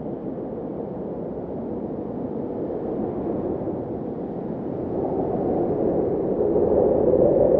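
Blizzard wind blowing as a low, rushing noise that swells into a stronger gust over the last few seconds.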